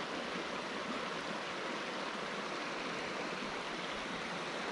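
Mountain stream running, a steady, even rush of flowing water.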